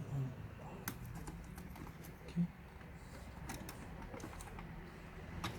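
Light, scattered clicks and taps of plastic and small metal parts being handled inside an opened laptop during disassembly, a few clicks spread over several seconds.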